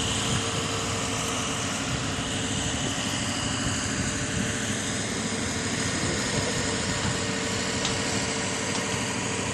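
Steady engine noise of an idling vehicle, with a faint constant hum held throughout.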